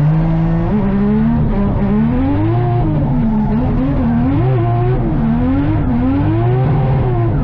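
Drift car engine revving up and down over and over, its pitch swinging up and falling back about once a second, under a steadier low engine note.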